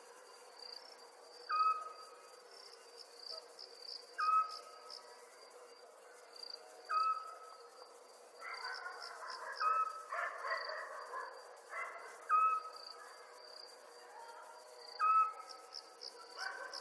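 Night ambience of crickets trilling steadily, with a short single-note animal call repeated about every two and a half seconds. A few seconds of rougher chattering calls come in around the middle.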